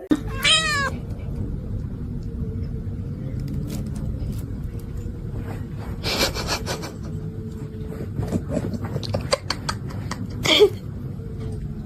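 A pet's short cries: one rising and falling call right at the start, another about six seconds in and a falling call near the end, over a steady low noise with a faint steady hum.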